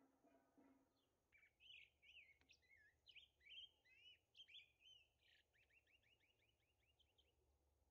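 A songbird singing faintly: a run of varied, quick whistled notes, ending in a fast series of short repeated notes near the end.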